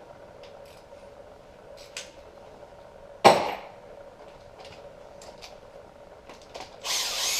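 Light clicks of hand tools on engine parts, a single loud metal clank about three seconds in, then near the end a cordless power tool spinning up and running for about a second, undoing a bolt on the timing-chain guide of an engine being torn down.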